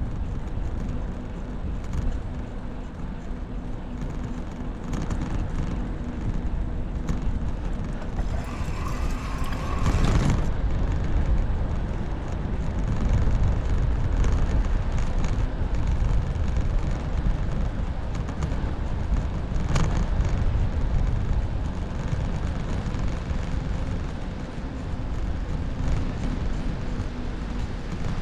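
Wind rushing over the microphone and tyre noise during a bicycle ride, with a louder passing rush, likely a vehicle going by, about nine to ten seconds in.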